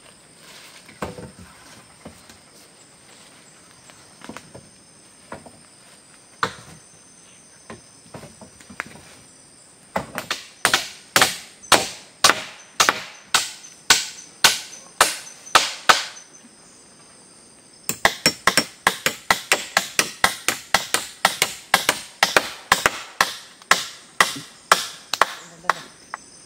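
Repeated blows on wood. A few scattered knocks come first, then about ten seconds in a run of sharp strikes at roughly two to three a second, a short pause, and a faster run at about three to four a second.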